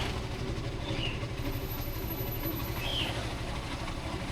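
Motorcycle running with a steady low engine and road rumble, and a short high chirp twice.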